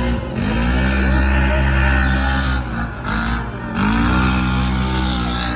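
Monster truck engines running hard at racing speed, the pitch climbing as the throttle opens at the start and again a little under four seconds in, with a brief drop in between.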